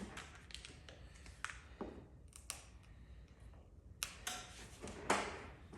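Light clicks and taps from paintless dent repair tools being handled during glue pulling, scattered irregularly, with a short scrape about five seconds in.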